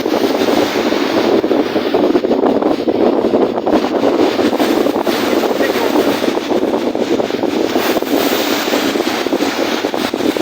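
Strong wind blowing over the microphone with lake waves washing, a loud, steady rushing noise.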